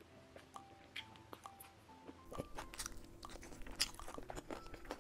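Close-miked eating sounds of a person chewing spicy roasted pork rib meat: wet smacks, clicks and crunches, sparse at first and denser and louder from about halfway through. Soft background music plays faintly underneath.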